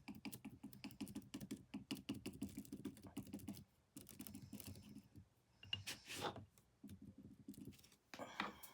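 Faint, rapid light tapping of a palette knife dabbing paint onto a canvas, then a couple of short scraping strokes, one about six seconds in and one near the end.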